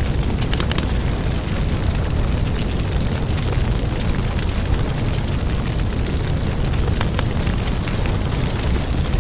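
Wood fire burning in a fireplace: a steady low rumble of flame with frequent sharp crackles and pops.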